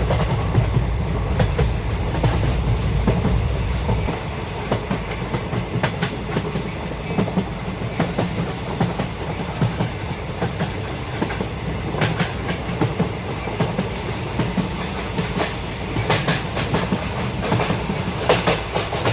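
Toyama Chihō Railway 10030 series electric train running on the track: a steady rumble with many sharp clicks of the wheels over the rail joints. The low rumble is heavier for the first few seconds, and the sound cuts off suddenly at the end.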